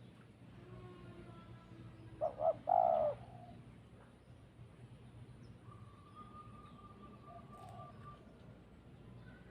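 Dove cooing: two short notes, then a longer coo about two to three seconds in, with fainter bird calls and a thin steady whistle-like note later on.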